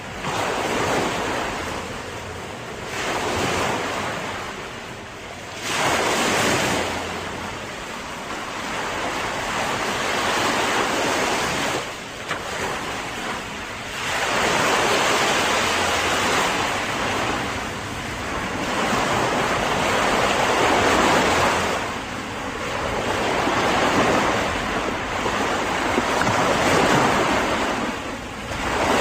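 Ocean surf: waves breaking and washing in, the rush of water swelling and easing every few seconds.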